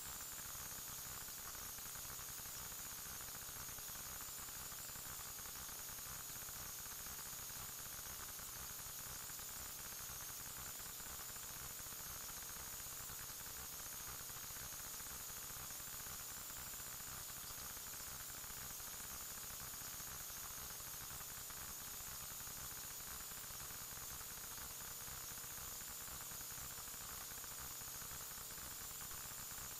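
Steady electronic static hiss with a thin high-pitched whine and a low hum underneath, unchanging throughout: the recording's own noise floor, with no event audible.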